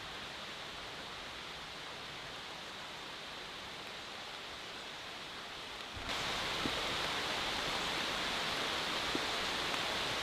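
Steady rain falling in woodland, an even hiss that gets louder about six seconds in, with a few faint drop ticks.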